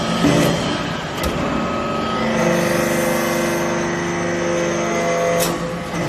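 Hydraulic metal-chip baler working: sharp mechanical clacks, then a steady whine that sets in about two seconds in, holds for about three seconds and stops with a louder clack near the end.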